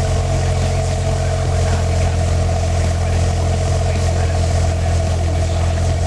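Suzuki Wagon R Stingray MH23S's 660 cc three-cylinder engine running steadily through an aftermarket ROSSO MODELO Ti-C muffler. The exhaust note holds an even pitch with no revving.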